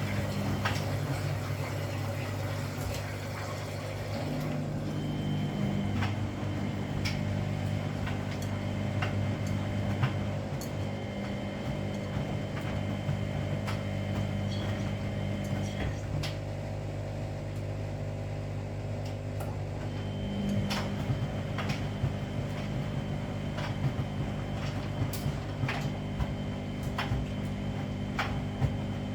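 Washing machines running a 40°C wash cycle: a steady motor hum with scattered clicks and knocks as the drum turns the laundry.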